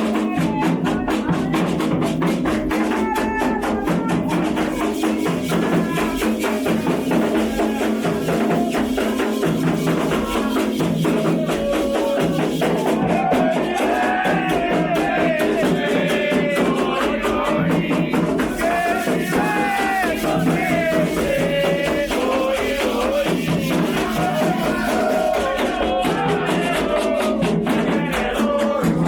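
Candomblé ritual music: voices singing a chant over steady hand drumming and a shaken rattle, keeping an even, fast rhythm throughout.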